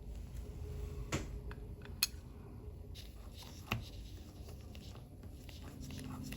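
Small sharp metal clicks and taps of watchmaker's tools (tweezers and screwdriver) working on a watch movement: three clearer clicks about a second, two seconds and nearly four seconds in, among fainter ticks over a low hum.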